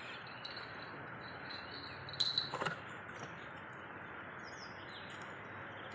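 Outdoor riverside ambience of insects and birds chirping, with two sharp clicks a little over two seconds in.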